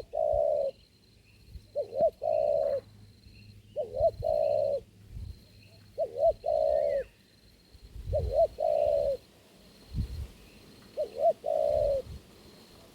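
Spotted dove (tekukur) cooing, a phrase repeated about every two seconds: two quick notes and then a longer held coo. Faint chirps from other small birds and a few low thumps lie underneath.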